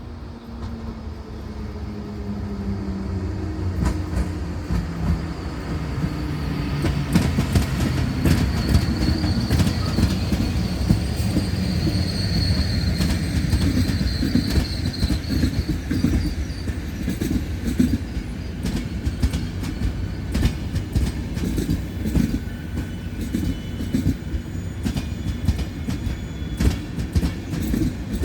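An EP09 electric locomotive passes, its motor tone falling in pitch. Then the coaches of a passenger express roll by with fast, steady clicking of wheels over the rail joints. A thin high wheel squeal runs for several seconds in the first half.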